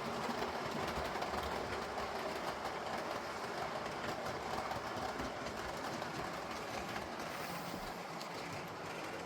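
Model Class 90 locomotive hauling a rake of Mark 3 coaches running along model railway track: a steady running sound with rapid fine clicks, fading a little toward the end.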